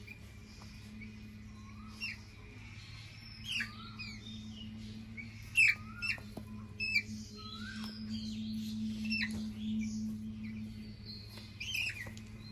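Small birds chirping: a run of short, sharp, falling chirps, thickest and loudest in the middle, over a faint steady low hum.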